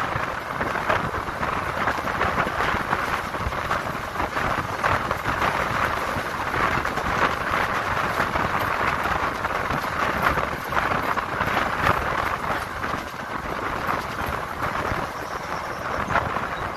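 Passenger train running: a steady rush of noise with constant small rattles and clatter.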